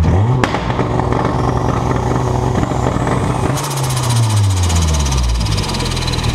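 Car engine revving: the pitch climbs, holds steady, then falls from about three and a half seconds in and settles low. A sharp click comes about half a second in, and a fast high rattle joins as the revs drop.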